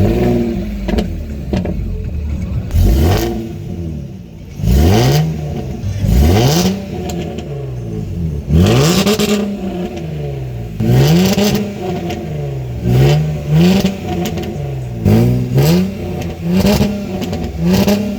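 A car engine revved in about ten quick blips, each rising sharply and falling back to idle, roughly every one and a half to two seconds.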